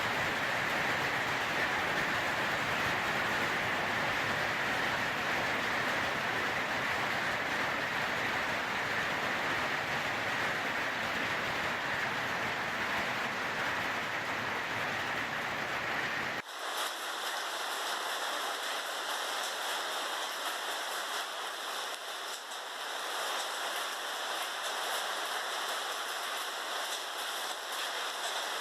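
Heavy rain pouring down in a hailstorm, a steady hiss. About halfway through it cuts abruptly to another recording of the downpour, thinner, with the low end gone.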